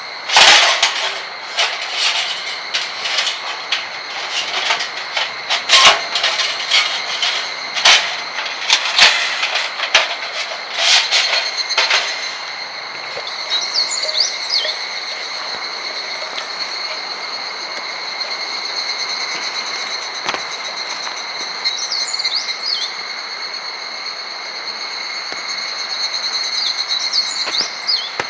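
Strong wind blowing through an outdoor campsite. Irregular knocks and rattles come for about the first twelve seconds, then steady wind noise with a high, even buzzing and a few short chirps.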